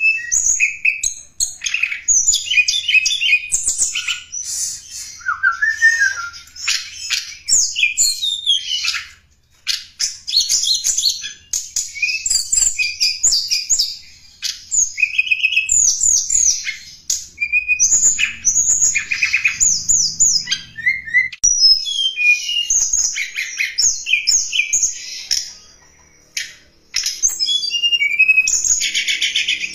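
Tledekan gunung song: a fast run of high, sharp chirps and short trills, broken by a few brief pauses. It is a lure call (suara pikat) for drawing in wild birds.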